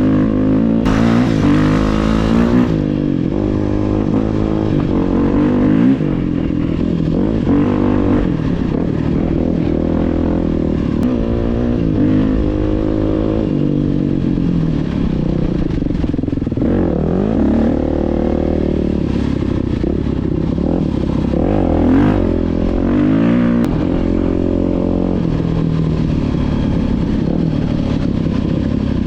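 Dirt bike engine being ridden off-road, its pitch rising and falling again and again with the throttle and gear changes.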